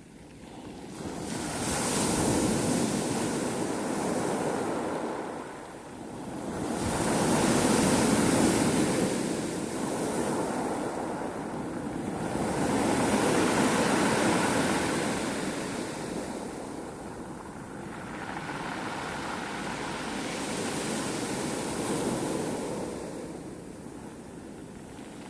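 Sea surf: waves breaking and washing in four slow surges, each swelling and ebbing over several seconds.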